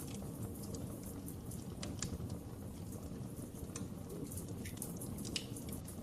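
Wood fire crackling: a steady low rumble of flames with irregular sharp pops and snaps, a couple of louder pops about two seconds in and past five seconds.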